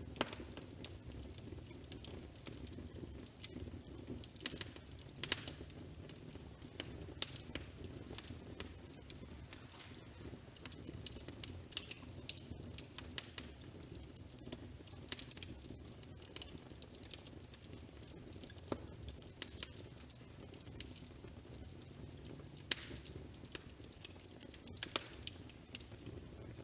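Fireplace crackling: a steady low rumble of burning with irregular sharp pops and snaps.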